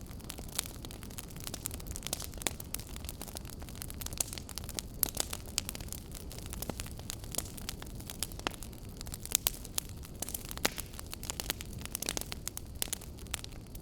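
Fireplace fire crackling, with frequent sharp, irregular pops over a low, steady rumble.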